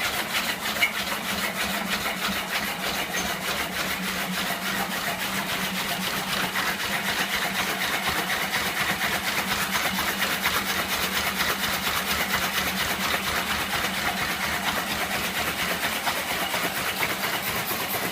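Magnet-powered axial machine running steadily under electronic timing: a constant hum with fast, even mechanical ticking.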